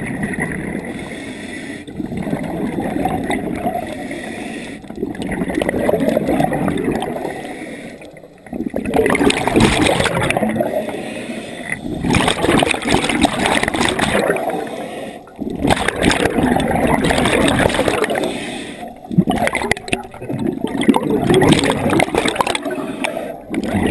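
Scuba diver breathing through a regulator underwater: exhaled bubbles gurgling and rushing past in repeated bursts, with short pauses for each inhale, about every three to four seconds.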